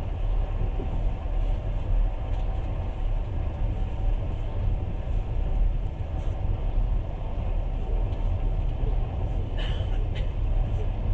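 Steady rumble of a passenger train running along the track, heard from inside the carriage, with two short sharp knocks about ten seconds in.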